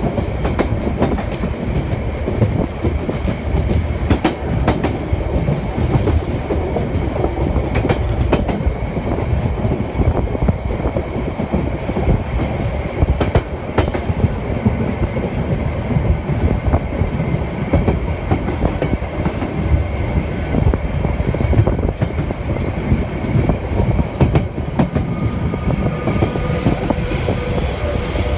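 Narrow-gauge Harzkamel diesel railcar train running steadily: a low rumble with wheels clacking over the rail joints. Near the end the wheels start to squeal as the train takes a curve.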